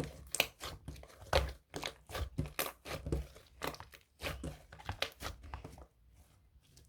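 Irregular crinkling and crunching: a quick run of short, sharp crackles, about two or three a second, that thins out and stops about six seconds in.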